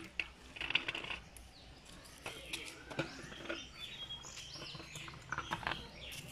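Birds chirping: scattered short high calls and a few brief whistled glides over faint background noise.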